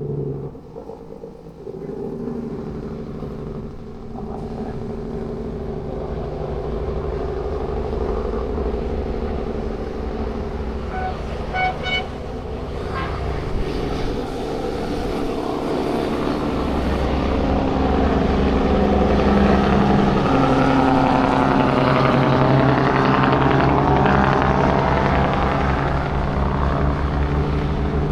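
Heavy truck's diesel engine on the engine brake going downhill. It grows louder in the second half with a rapid, pulsing bark. Brief horn toots sound about eleven seconds in.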